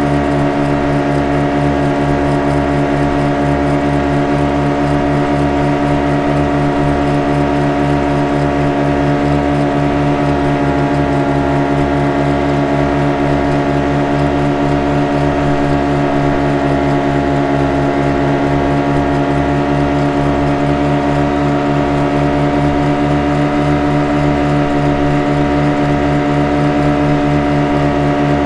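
Boat engine running at a constant speed: a steady drone with a fast, even throb underneath that does not change.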